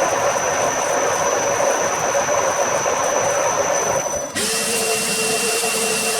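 Workshop machinery running: a steady machining noise with a high whine, then, a little after four seconds, a different motor running with a steady hum and a hiss.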